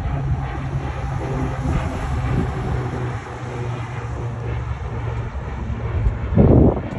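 Steady low mechanical drone, like a running vehicle engine, with a louder low rumble about six and a half seconds in.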